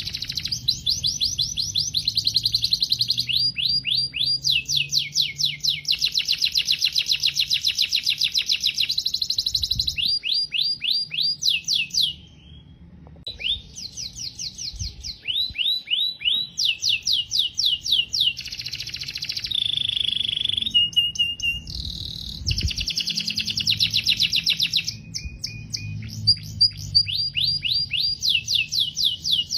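Domestic canary singing a long song of rapid trills: each phrase is a fast run of the same short note repeated many times a second, switching to a new phrase every second or few. There is a brief pause about 12 seconds in, and a few held whistled notes a little past the middle.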